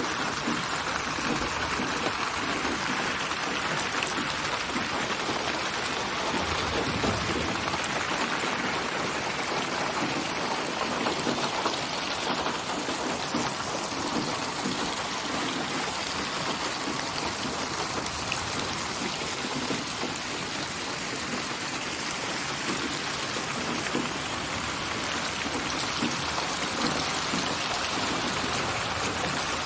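Steady rain: an even hiss dotted with many small raindrop ticks.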